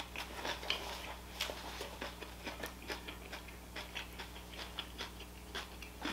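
Chewing with the mouth close to the microphone: soft, irregular mouth clicks and smacks as food is eaten, over a faint steady hum.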